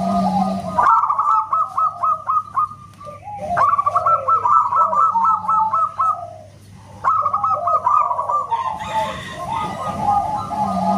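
Perkutut (zebra dove) song: phrases of quick, staccato, whistle-like cooing notes, repeated three times with short pauses between them.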